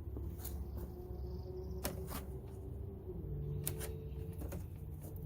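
Several sharp clicks and taps of a hand tool working small plastic push-pin trim fasteners loose, with a steady low hum behind them.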